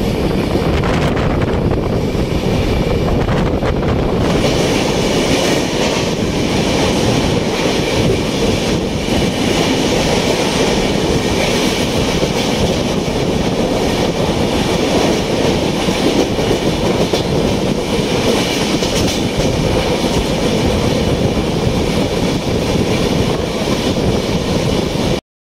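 Express train running at speed, heard from an open coach door: a steady, loud rumble of the wheels on the rails with clacks over rail joints.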